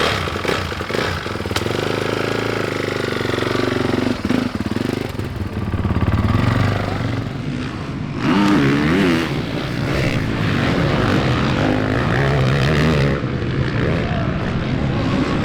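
Honda 450 four-stroke motocross bike engine running, revving up and down in uneven blips.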